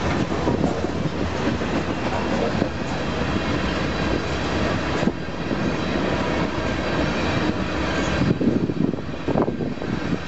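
Freight train cars, covered hoppers and then tank cars, rolling past on the main line: a steady rumble of steel wheels on rail with scattered knocks and clatter, growing choppier and more uneven near the end.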